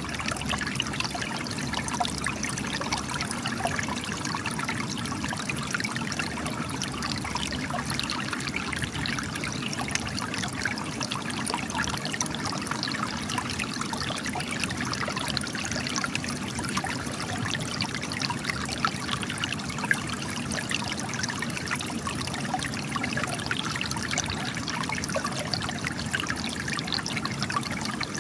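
Spring water trickling and splashing out of cracks in rock, a steady babbling flow.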